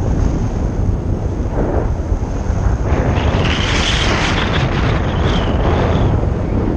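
Strong wind buffeting the microphone in flight under a paraglider, a loud, steady low rumble. From about three seconds in to about six, a higher sound rises over it.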